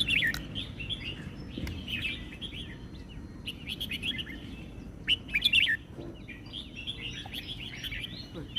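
Red-whiskered bulbul singing: short, quick whistled phrases repeated one after another, loudest about five and a half seconds in.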